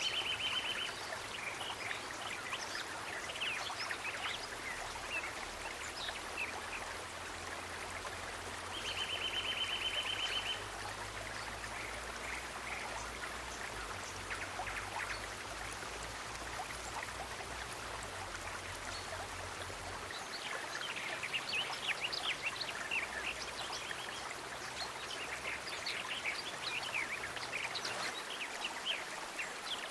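Nature ambience of steady water noise, like a stream or rain. A short buzzy trill sounds at the start and again about nine seconds in, and many quick high chirps come in the last third.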